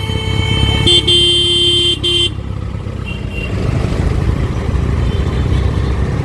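A vehicle horn honks for about two seconds, its pitch dropping about a second in, over the steady engine and road noise of city traffic. A faint distant honk follows about three seconds in.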